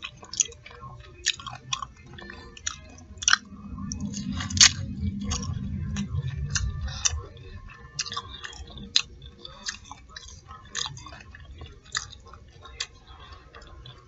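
Close-miked chewing of fried tilapia nuggets and fries: irregular wet mouth clicks and smacks, with a louder, fuller stretch of chewing a few seconds in.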